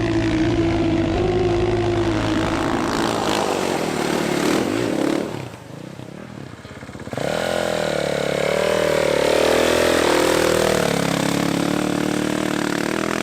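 Dirtbike engine running under varying throttle, its pitch rising and falling. About five seconds in it drops off sharply for a couple of seconds, then comes back up with a rising rev and carries on.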